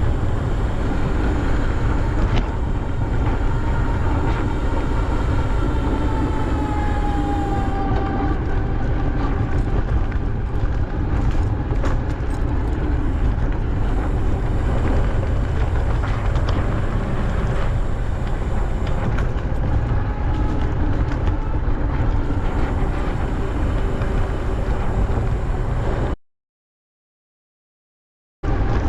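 Wind buffeting the microphone of a camera on a moving bicycle, a steady low rumble, with a faint falling whine a few seconds in. The sound cuts out to silence for about two seconds near the end.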